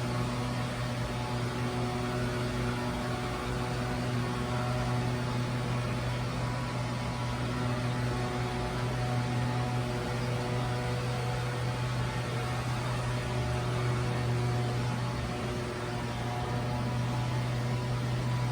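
Steady electrical or motor hum, an even low drone with several fixed overtones, unchanging throughout.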